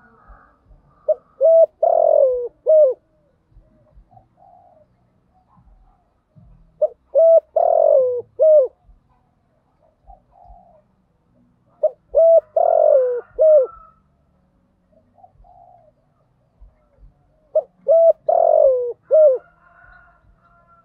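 Spotted dove cooing in four phrases, one about every five to six seconds. Each phrase has a couple of short notes, a longer coo that falls in pitch, and a short closing note, with softer coos in between.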